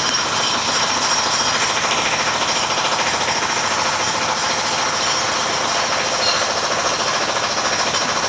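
Jackhammer hammering without a break, a loud, rapid, even stream of blows.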